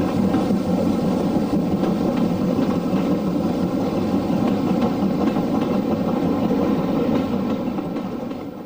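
Railway train engine running steadily, the sound fading away about eight seconds in.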